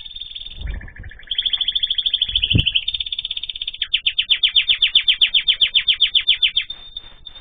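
Cage birds singing in fast, repeated trills. The loudest is a run of about ten notes a second lasting a few seconds in the middle. Two dull low thumps come about a second in and again about two and a half seconds in.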